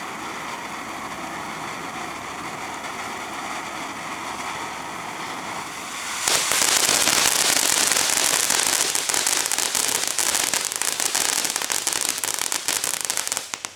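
TNT Fireworks Rain of Color firework cake going off: a steady hissing for about six seconds, then a sudden, much louder dense crackling that stops abruptly near the end.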